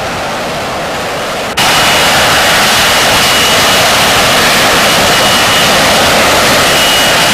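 F-35B's jet engine roaring, with a thin steady high whine over the roar; the sound jumps suddenly louder about a second and a half in, after a softer rushing noise.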